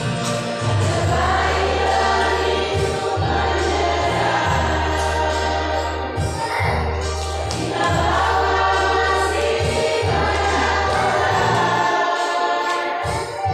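A choir singing in phrases over a musical accompaniment with a steady low bass line.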